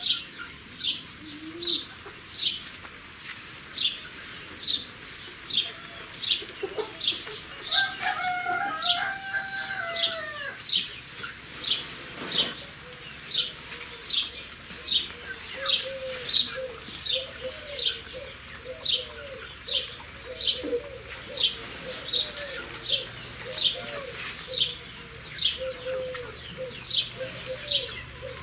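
A small bird chirps over and over in an even rhythm, about one high chirp every three quarters of a second. Hens cluck low in the background, and a longer wavering call comes about eight seconds in.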